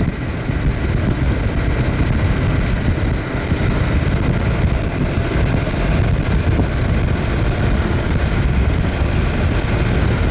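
Steady rumble of a car being driven, road and wind noise heard from inside the moving vehicle.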